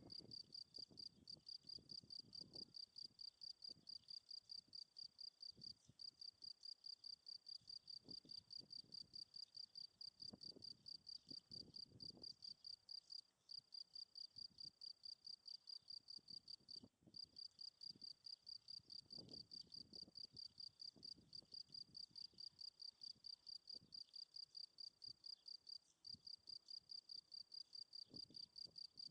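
European field crickets chirping: a high, evenly repeated chirp of about three a second that breaks off briefly a few times.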